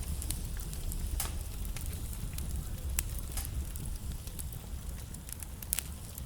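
Wood fire burning in a fireplace: a steady low rumble of the flames with scattered sharp crackles and pops, a few louder snaps about a second in, midway and near the end.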